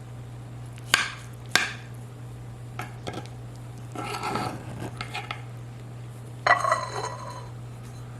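A serving utensil clinking and scraping against a casserole dish and plate as a portion is dished up. There are two sharp clinks about a second in, a scrape around four seconds, and a ringing clink at about six and a half seconds, over a steady low hum.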